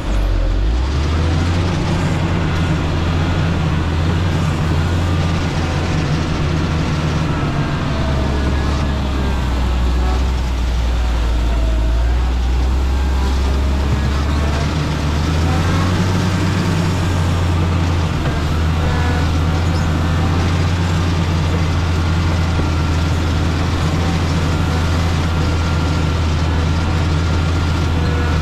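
Motor grader's diesel engine running under load, a deep steady drone whose pitch drops and rises a few times, with a faint whine over it.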